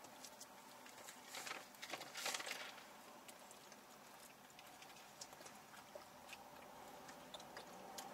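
Faint chewing and mouth sounds of people eating fast food, with a few brief rustles about one and a half to two and a half seconds in.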